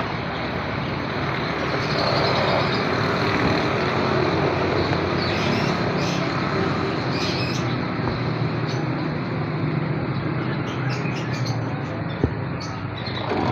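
Steady mechanical drone with a low hum, unbroken throughout, with a few short, faint high-pitched sounds on top.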